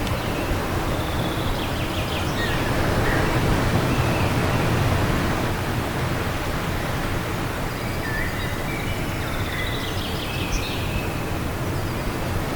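Steady wind blowing, swelling a little a few seconds in, with small birds chirping now and then over it.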